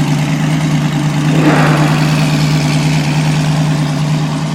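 SSC Ultimate Aero supercar's twin-turbo V8 idling steadily, with a brief swell of noise about a second and a half in.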